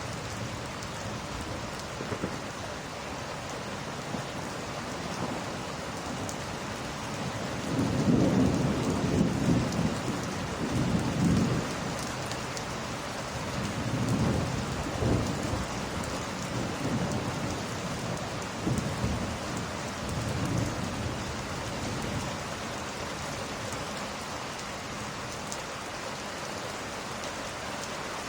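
Steady rain with thunder rumbling in several long swells; the strongest roll comes about a third of the way in, and weaker ones follow.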